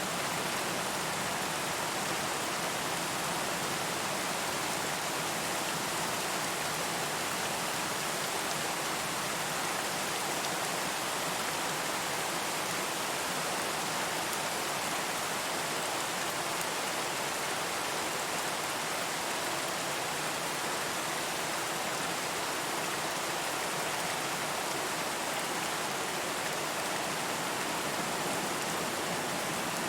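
Steady rain, falling evenly without change, with no thunder or distinct drops standing out.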